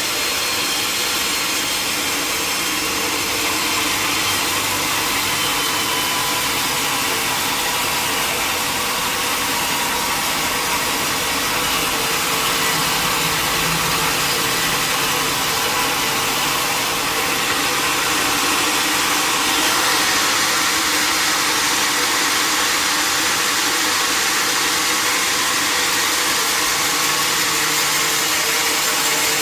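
Sawmill machinery running steadily: a motor's even hum under a continuous whirring saw noise, a little louder from about two-thirds of the way in.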